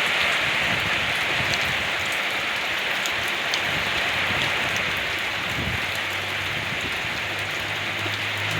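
Steady rain falling, with scattered individual drips ticking through it. A low steady hum joins about six seconds in.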